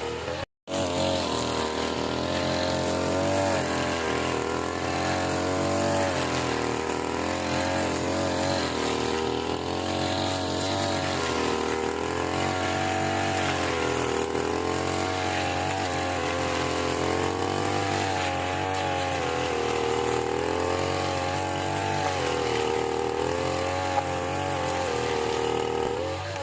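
Small petrol engine of a grass-cutting machine running continuously, its pitch wavering up and down as the load on the cutter changes. There is a brief break in the sound about half a second in.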